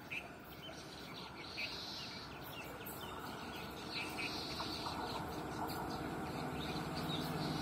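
Birds chirping over the rising rumble of an approaching locomotive-hauled passenger train, which grows steadily louder, with a low steady hum joining in near the end.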